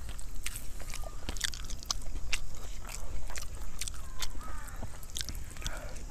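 Close-up chewing of a mouthful of rice and egg curry: many short mouth clicks and smacks, irregularly spaced.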